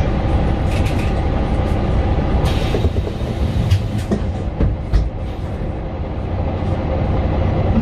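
Interior of a 2018 Mercedes-Benz Citaro 2 city bus under way: a steady low rumble from its OM 936 six-cylinder diesel and the road, with rattles and clicks from the body and a brief hiss about two and a half seconds in.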